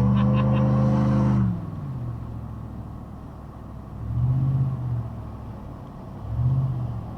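Car engine revving, its note rising slowly until it drops off abruptly about a second and a half in, followed by two short low revs.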